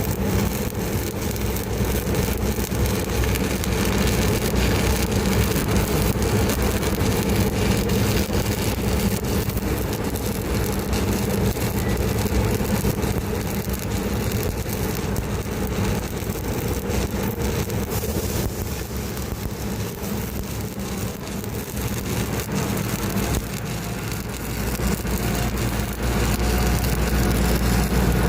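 A motor or engine running steadily with a low hum, its low rumble growing stronger near the end.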